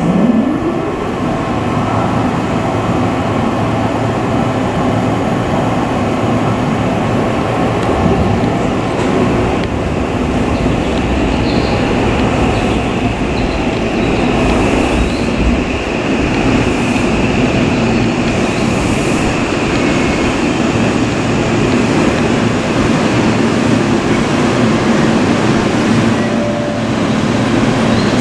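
Seibu 6000 series electric commuter train running into the platform and braking to a stop, its motors and wheels on the rails sounding steadily. A motor whine rises in pitch at the very start, and a higher squeal comes in around the middle.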